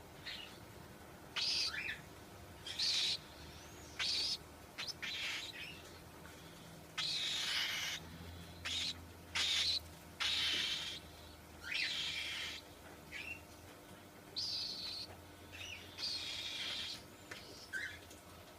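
Cockatiel calling again and again: about fifteen harsh, scratchy screeches and short chirps at irregular intervals, some ending in a quick falling slur.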